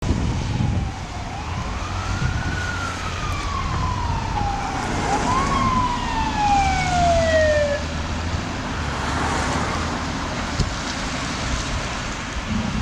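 A 2006 E-One Cyclone fire engine's siren wails, rising and then slowly falling twice, and stops about eight seconds in. The truck's engine and road noise rumble underneath the whole time.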